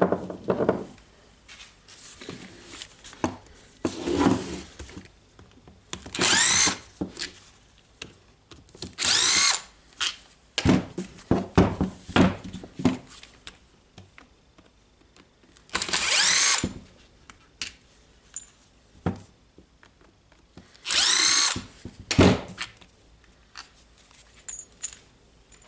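Electric screwdriver running in four short bursts of about a second each, each with a rising whine as it spins up, backing screws out of a power tool's housing during disassembly. Small clicks and knocks of handled parts come between the bursts.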